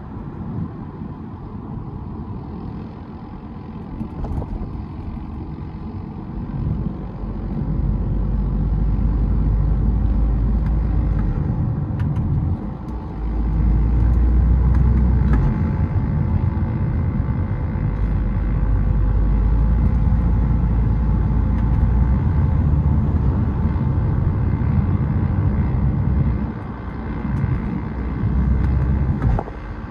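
BMW 320d four-cylinder turbodiesel with a K&N cold air intake, driving under load: a steady low rumble with slowly rising engine tones. The engine sound drops briefly about twelve seconds in and twice near the end.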